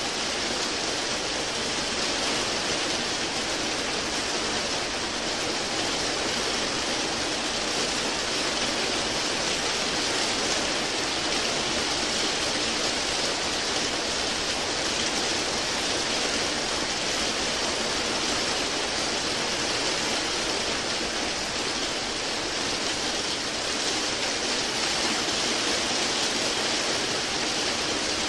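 Steady rain, an even hiss with no separate drops, thunder or pauses standing out, strongest in the upper range.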